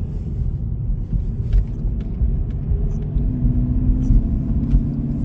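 2018 Hyundai Elantra's 2.0-litre four-cylinder engine running while driving on a snowy road, heard from inside the cabin as a steady low rumble. A faint engine tone comes in about three seconds in.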